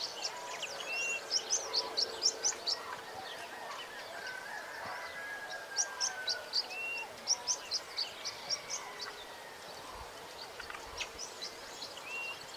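Wild birds chirping: quick runs of short, high, falling chirps that come several times, with a few lower whistled notes in between, over a faint steady outdoor background.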